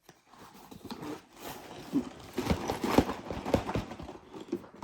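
Sealed plastic bags of Lego pieces being handled in their cardboard box: irregular clicks and knocks of loose bricks and packaging, thickest about two and a half to four seconds in.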